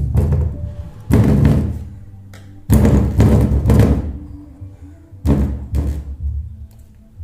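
Bass-heavy music played through a subwoofer with a filter board, heavy low bass with loud drum hits a few times.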